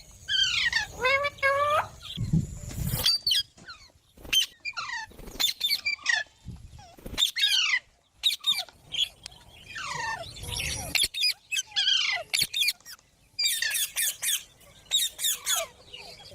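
Green parrots giving a string of short, shrill calls and squawks, many falling sharply in pitch, in irregular clusters. Near the end comes a fast run of repeated chattering calls. A low rumble sounds about two seconds in.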